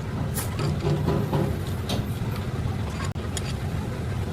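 Heavy diesel engine idling with a steady low rumble, with a few light clicks and knocks over it.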